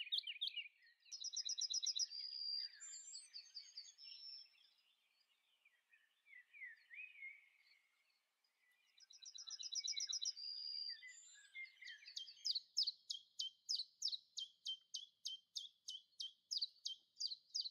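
Songbirds singing: quick high trills and scattered chirps, then from about two-thirds of the way in a long run of rapid repeated notes, about four a second.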